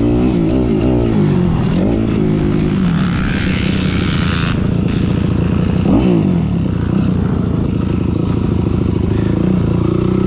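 Dirt bike engine revving, its pitch rising and falling over the first couple of seconds, rising briefly again about six seconds in, then running at a steady lower pitch. A hissing rush comes in around three to four seconds in.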